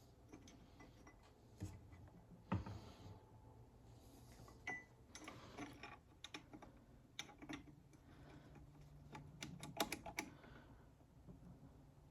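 Scattered light clicks and metal clinks of Ford Toploader 4-speed transmission parts being handled during reassembly. There is a louder knock about two and a half seconds in and a quick run of clicks near the end.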